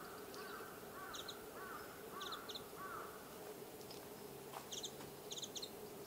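Wild birds calling: one bird gives a series of about six evenly spaced, arching notes over the first three seconds, while small birds add short, high chirps in quick clusters of two or three throughout. A steady low hum sits underneath.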